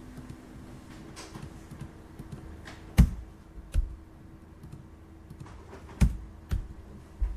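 Office ambience: a faint steady hum with five sharp knocks of objects being handled on a desk, the loudest about three seconds in and again about six seconds in.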